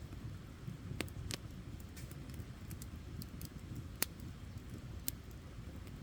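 Wood campfire burning with a steady low rumble and scattered sharp crackles and pops, the loudest about four seconds in.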